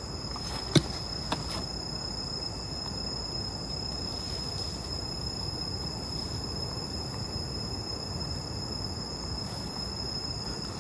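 Night insects, crickets, chirring steadily in a high continuous tone over a low hiss, with two faint clicks about a second in.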